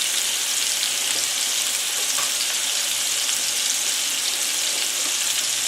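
Ground-beef Salisbury steak patties sizzling steadily in hot olive oil in a frying pan as they brown.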